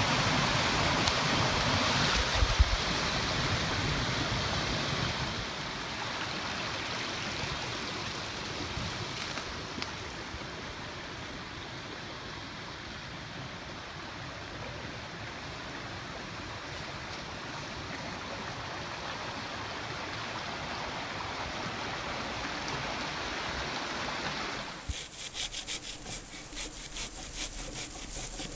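A creek rushing steadily for most of the time, then, near the end, a hand saw cutting through a lichen-covered branch in quick, even back-and-forth strokes.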